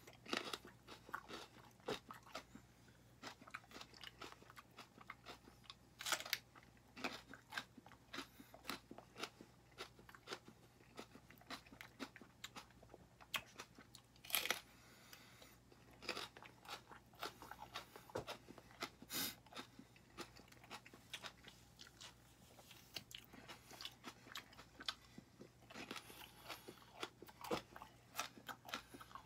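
Raw green serrano peppers being bitten and chewed: a long run of faint, irregular crisp crunches with a few sharper bites, one of them about halfway through.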